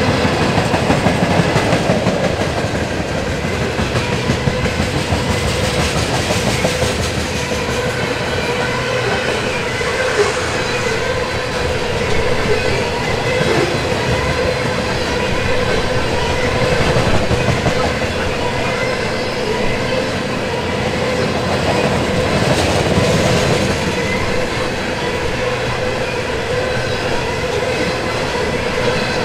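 Freight train of ethanol tank cars rolling past, a steady rumble of steel wheels on rail with the clickety-clack of wheels over rail joints and a steady tone running underneath.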